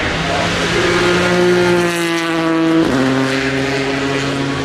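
Racing car engine accelerating hard, its note rising steadily, then dropping sharply at an upshift about three seconds in before it pulls again in the next gear.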